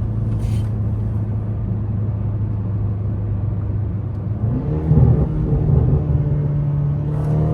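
Mercedes-AMG C63 engine cruising with a steady low drone. About four and a half seconds in it steps up in pitch and gets louder as the car is pushed hard, then holds the higher note.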